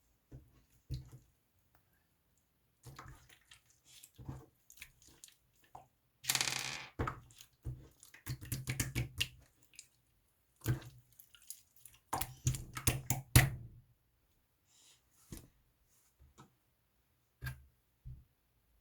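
Slime being squeezed and pressed by hand, with irregular sticky clicks, pops and crackling squelches; the busiest stretches are a few seconds in and just past the middle.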